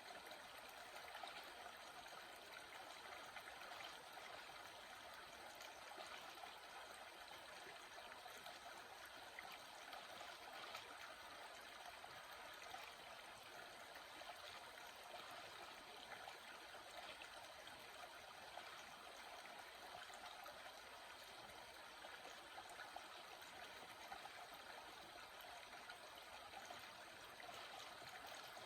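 Running water of a stream flowing steadily, a faint, even rush with no change.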